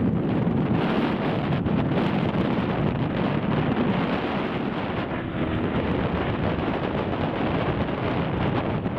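Steady rushing engine noise of an aircraft at an air show, mixed with wind buffeting the microphone.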